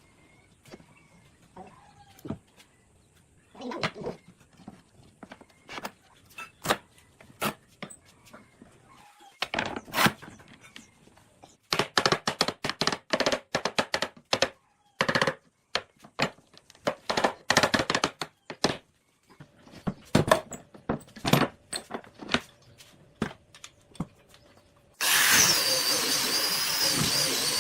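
Woodworking tool sounds: a long series of sharp knocks and clicks, irregular and at times rapid, then a loud steady rushing noise that starts suddenly near the end.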